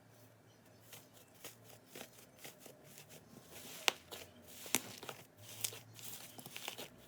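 Slime being squished and stretched by hand: faint sticky crackling with scattered small pops, the two sharpest about four and five seconds in.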